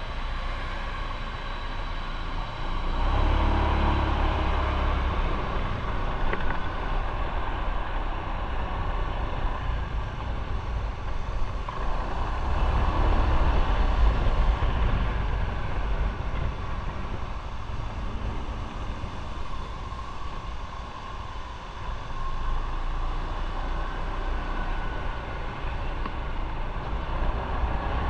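Motorcycle under way on the road: a steady engine and road rumble that swells louder about three seconds in and again around the middle.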